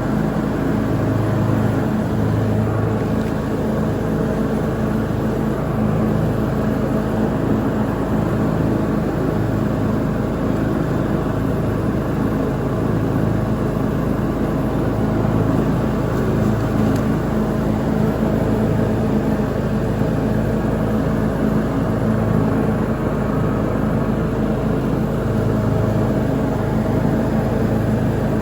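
Lawn mower engine running steadily while mowing, with an even hum.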